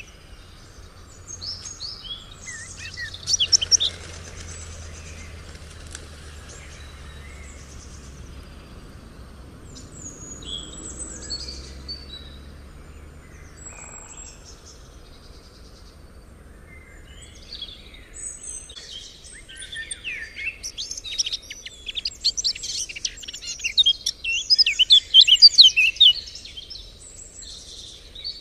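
Songbirds chirping and singing, a brief flurry about three seconds in, scattered calls after it, then a long, lively stretch of rapid chirping in the second half.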